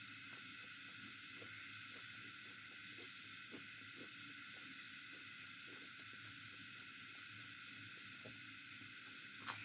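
Faint, steady chirping of insects, a regular pulse about three times a second, over a low hiss, with soft irregular eating clicks and one sharper click near the end.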